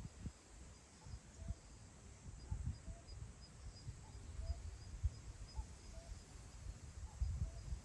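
Wind gusting over open grassland, rumbling low on the microphone, with faint short bird calls repeating about once a second and a faint high ticking in the background.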